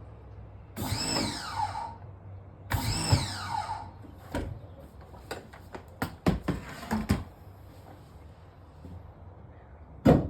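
Two squeals that each fall sharply in pitch over about a second, two seconds apart, then a string of sharp knocks and clicks with one loud knock near the end, from hand work on the sink's drain pipes.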